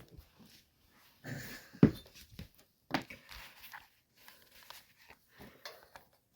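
Scattered clicks, knocks and rustles of hand work on a generator carburetor while a fuel hose is pushed onto it, with a sharp knock about two seconds in and another about a second later.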